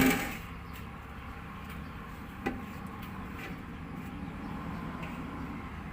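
A steady low engine drone, with a single sharp knock about two and a half seconds in.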